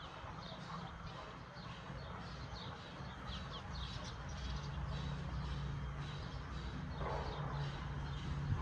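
Small birds chirping repeatedly in quick, short downward notes, over a low steady rumble.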